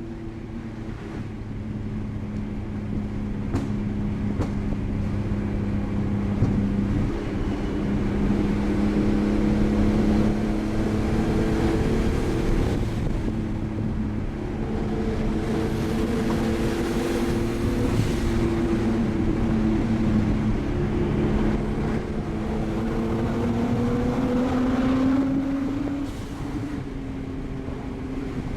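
Nissan Skyline's straight-piped RB20 straight-six engine pulling hard under load, its exhaust note rising and falling with revs as it runs through the gears, then easing off near the end.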